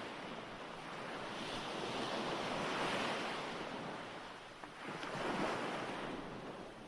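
Recorded ocean waves washing on a shore: a steady hiss of surf that swells to a peak about three seconds in, eases off, then swells again a second or so later.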